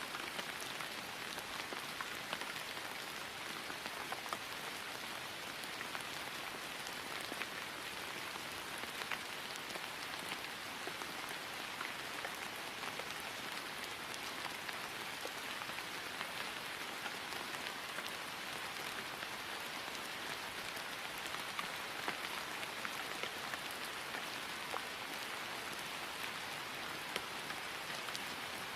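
Steady rain falling on grass, an even hiss speckled with many small drop ticks.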